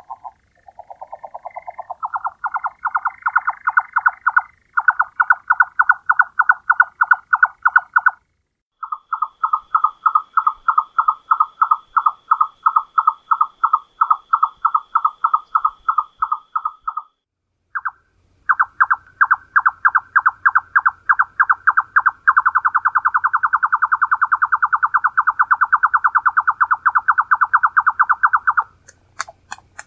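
Nightjar song: long series of short knocking notes, about seven a second, in runs broken by brief pauses. The notes rise a little in pitch at the start, and about two-thirds of the way through they speed up into a fast, almost continuous churr.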